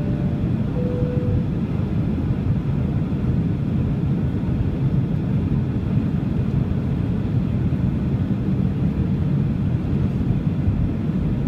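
Steady rumble of a Boeing 737-800 airliner heard from inside the passenger cabin: its CFM56 jet engines and the airflow run evenly, with no rise or fall. A couple of short faint tones are heard in the first second and a half.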